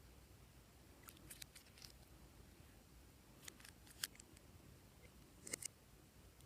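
Glossy slime being worked by hand, giving short clusters of sticky clicks and pops, about three times, with quiet between.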